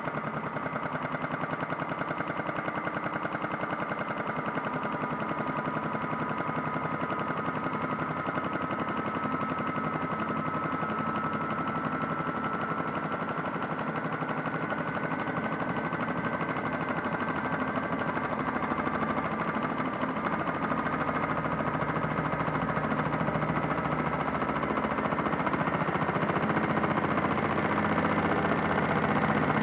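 Modified Miele toy washing machine spinning up with an unbalanced load: its small motor whines in a thin tone that slowly rises in pitch, over a fast, continuous rattle from the machine, growing louder toward the end.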